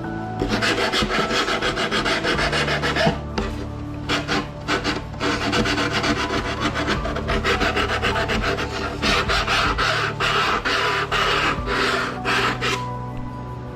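Foam deer taxidermy form being rasped or sanded by hand: quick repeated scraping strokes in runs with short pauses, stopping near the end.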